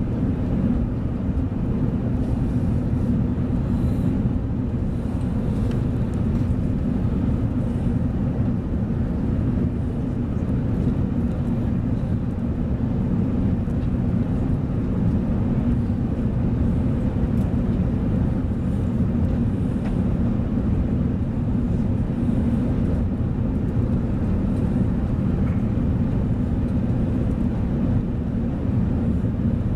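Steady low rumble inside the cabin of an Airbus A380 airliner: engine and airflow noise heard from a passenger seat, even throughout.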